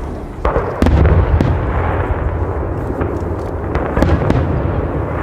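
Fireworks going off: several sharp bangs, roughly a second apart, over a continuous low rumble of further explosions and their echoes. The loudest stretch is about a second in.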